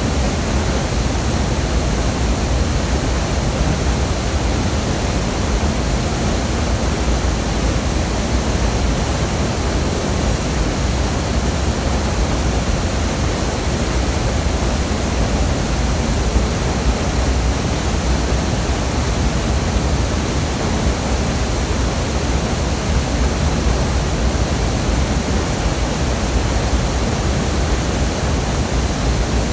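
Waterfall: a steady, loud rush of falling water with a deep low rumble under it.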